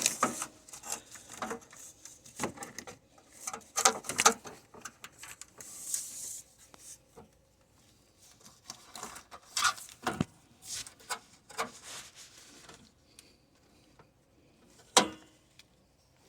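Scattered clicks, knocks and rubbing as the radiator's mounting brackets are handled and fitted into place by hand. There is a sharp click near the end.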